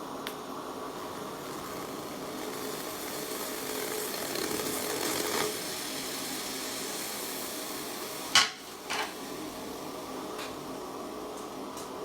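Steady hiss with a few faint clicks; about eight seconds in, a sharp hard knock, then a softer one half a second later, like hard objects or tools knocking together.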